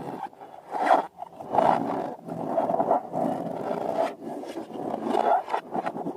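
Rubbery scraping and squishing from balloons and slime being handled, in uneven bursts.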